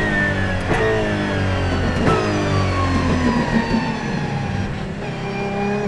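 Apollo Intensa Emozione's 6.3-litre naturally aspirated V12, heard from on board, falling in pitch as the car brakes. Three quick sequential downshifts each jump the revs up with a sharp crack, and the note settles lower and steadier near the end.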